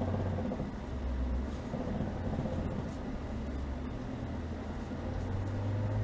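Chevrolet Niva's four-cylinder engine running as the car drives on snow, a steady low hum whose pitch rises about five seconds in as the engine picks up revs.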